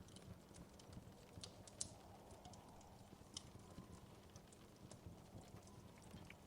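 Wood fire crackling faintly, with irregular small pops and snaps and one sharper pop a little under two seconds in, over a low steady rumble.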